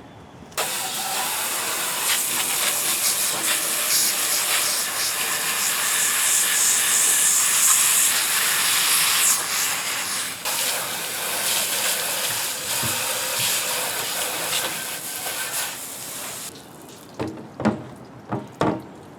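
Water spraying hard from a hose, rinsing chemical paint stripper off a metal radio part: a loud, steady hiss that starts about half a second in and stops a few seconds before the end. A few short knocks follow near the end as the part is handled.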